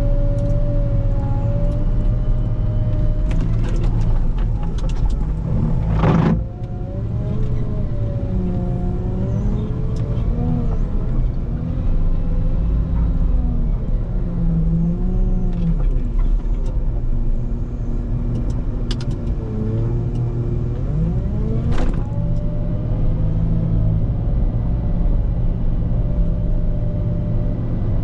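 Volvo L90H wheel loader running under load while plowing snow: a steady diesel rumble with a whine that rises and falls as the machine works. There is a sharp knock about six seconds in and another near the 22-second mark.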